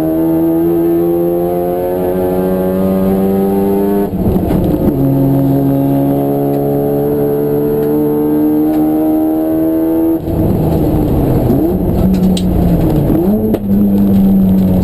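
Race car engine accelerating hard, its pitch climbing steadily through the gears, with upshifts about four seconds and about ten seconds in. Near the end the revs fall and rise again as the car slows and shifts down.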